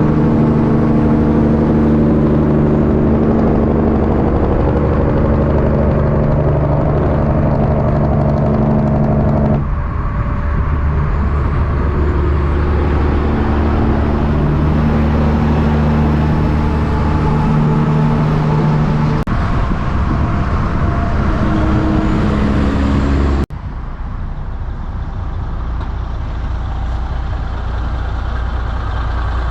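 Diesel engines of semi trucks running, a steady low drone with a deep hum. The sound changes abruptly twice, about ten seconds in and again near twenty-three seconds, as one truck's engine gives way to another.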